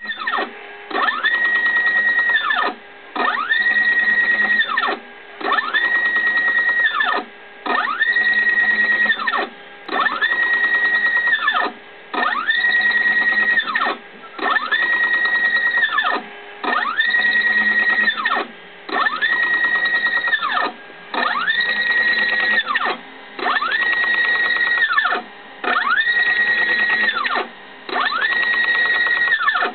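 Z-axis drive motor of a CNC milling machine moving the axis back and forth in a test cycle: each move is a whine that rises in pitch, holds steady, then falls and stops, repeating about every two seconds.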